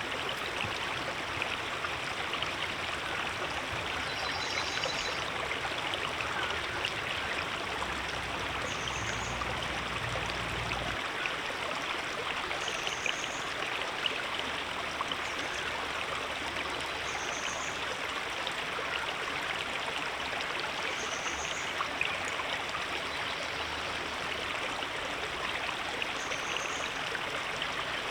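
River water flowing steadily over rocks, an even rushing sound. A faint, short, high chirp recurs about every four seconds above it.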